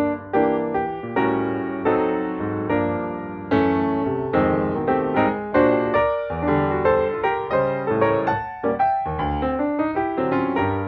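Background music: piano playing a flowing run of notes, each struck note fading, with a low bass line beneath.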